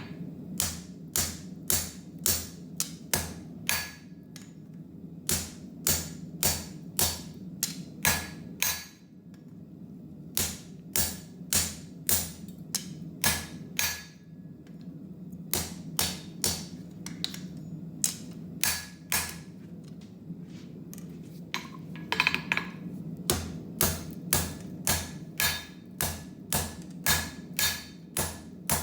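Hammer blows on hot wootz steel forging a knife tang, about two strikes a second in runs broken by short pauses. A steady low hum runs underneath.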